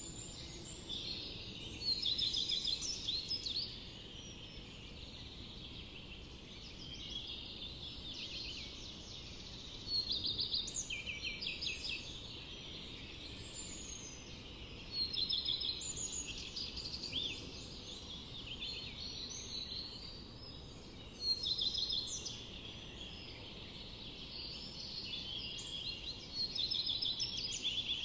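Forest birds singing: one bird repeats a loud, quick chirping song phrase about every five to six seconds, with quieter song from other birds between, over a steady low background hiss.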